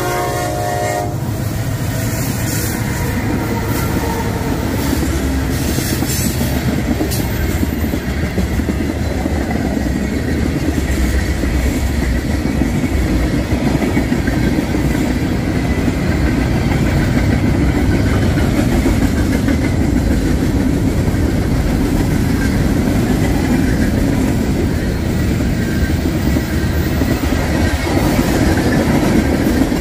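A Kansas City Southern manifest freight train passing: its multi-chime air horn cuts off about a second in, then the wheels keep clattering over the rail joints with a steady heavy rumble.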